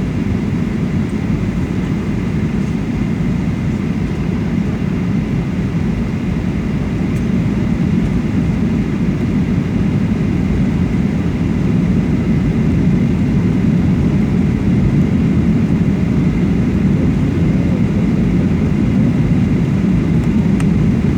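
Steady low roar of an airliner's passenger cabin in flight: engine and airflow noise heard from inside the cabin, with a faint high steady whine above it.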